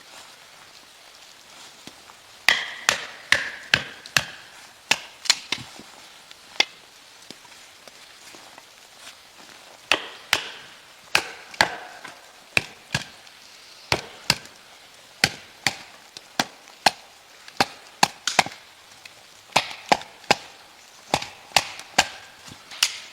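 Axe chopping wood: quick runs of sharp strikes, about two to three a second, each with a short ring, broken by a few pauses of several seconds.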